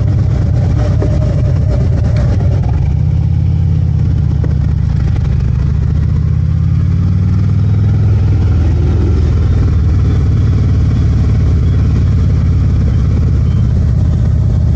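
Harley-Davidson motorcycle engine running steadily while riding, a loud continuous low drone.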